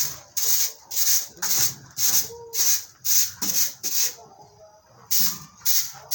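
Broom sweeping a floor in quick, even strokes, about two a second, with a short pause about four seconds in.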